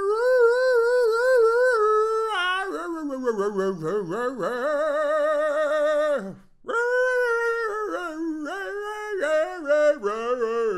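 A single unaccompanied voice singing a wordless melody, holding wavering notes with vibrato and sliding up and down in pitch, with a short break about six seconds in.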